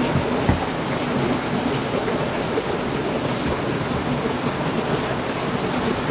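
Heavy rain falling steadily, with a short low thump about half a second in.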